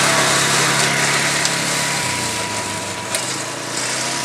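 Small gasoline engine of a 1960s pull-behind lawn mower running steadily under load in tall grass, changing note about two seconds in and slowly getting a little quieter.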